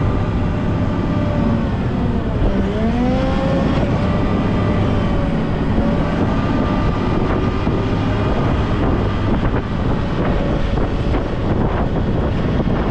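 Volvo L90H wheel loader's diesel engine running hard while pushing a snow plow, with a steady noisy rush beneath it. The engine pitch dips sharply and climbs back about two and a half seconds in.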